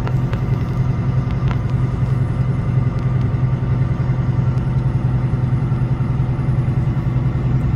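Semi truck's diesel engine running steadily at an even, unchanging pitch, a low drone.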